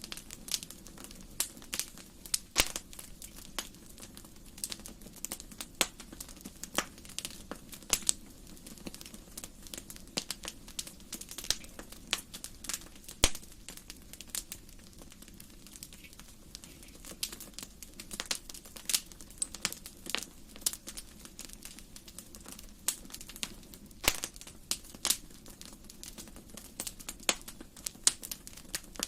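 Wood fire crackling in a fireplace: irregular sharp pops and snaps over a steady low background. A few louder snaps stand out, the sharpest about thirteen seconds in.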